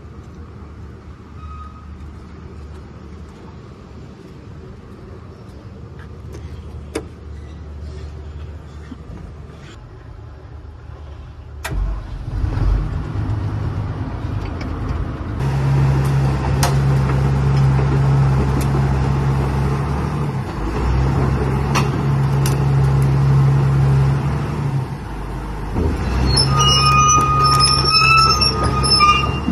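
SANY 365 excavator's diesel engine running, getting louder about twelve seconds in. From about fifteen seconds a strong steady low drone holds in long stretches with short breaks, and a high squealing whine joins it near the end.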